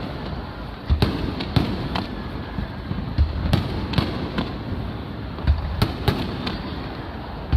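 Aerial fireworks shells bursting overhead: a string of about ten sharp booms at uneven intervals over a steady background din.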